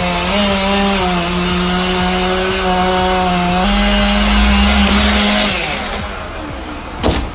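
Two-stroke chainsaw running at high revs with a steady, buzzing pitch. The pitch rises slightly about three and a half seconds in, and the saw fades out about two seconds later. A single sharp knock comes near the end.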